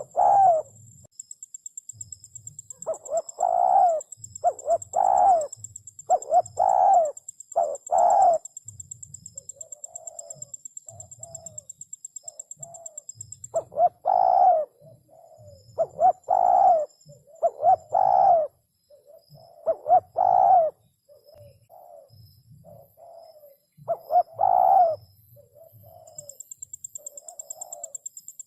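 Spotted dove cooing: clusters of loud, repeated coos with softer, shorter notes between them. A faint steady high whine runs behind the first half and returns near the end.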